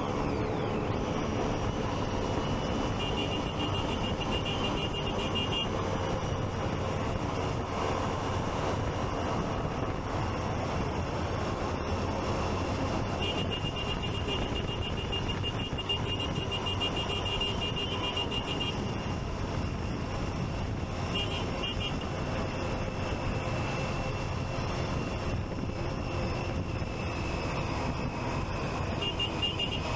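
Riding noise from a Triumph Street Triple 675's three-cylinder engine running under way, mixed with wind and traffic. A high, rapidly pulsing beep comes and goes several times.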